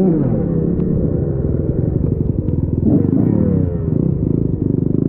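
Dirt bike engine running under throttle on a trail ride, its pitch rising and falling repeatedly as the rider revs and backs off.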